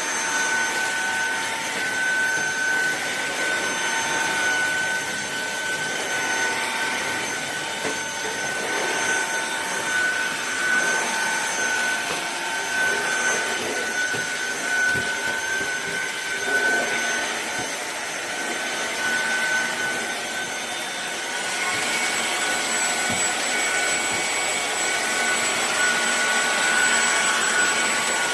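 Fieety 550 W cordless stick vacuum cleaner running steadily, with a motor whine over the rush of air. About 21 seconds in, a higher whine joins it.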